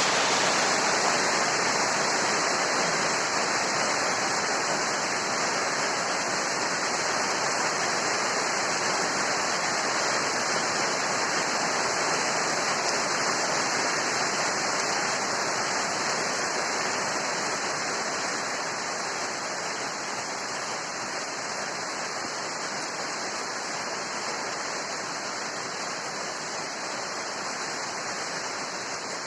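Rain falling steadily: a dense, even hiss with no separate drops standing out, slowly getting quieter over the second half.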